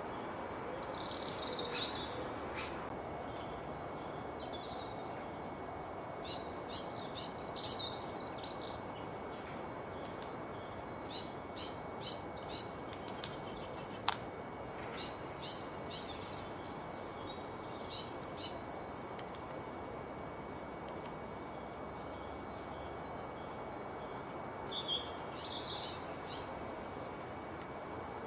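A songbird singing short, high-pitched phrases of quick notes, repeated every few seconds with gaps between, over steady background hiss.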